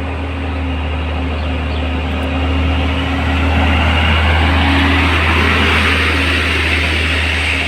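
Mitsubishi Fuso truck's diesel engine labouring in low gear as the truck crawls up a steep climb, a steady deep drone with a rough, noisy upper layer that swells louder toward the middle.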